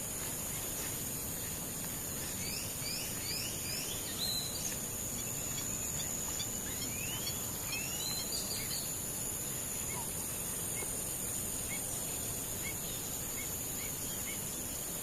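Wetland ambience with a steady high-pitched insect drone and scattered bird chirps. A run of quick rising notes comes about three seconds in, more come around seven to eight seconds, and a string of short notes comes near the end.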